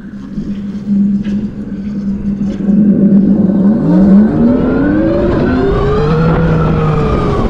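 Tarform Luna electric motorcycle's motor whining under acceleration: a steady tone at first, then rising in pitch from about three seconds in, peaking and easing slightly near the end, over a steady rush of wind and road noise.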